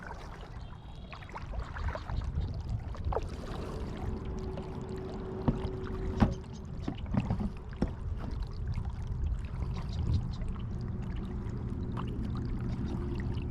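Kayak paddling: the paddle dipping and splashing in the water over a steady low rumble, with a couple of sharp knocks near the middle.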